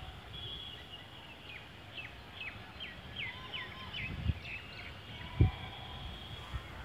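A bird calling outdoors: a quick run of about ten short high notes, each sliding down in pitch. A low thump about five seconds in is the loudest sound.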